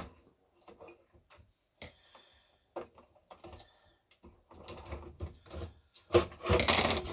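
Small parts and packaging of a new countertop dishwasher being handled: scattered light clicks and knocks, then about five seconds in a louder stretch of crinkling rustle.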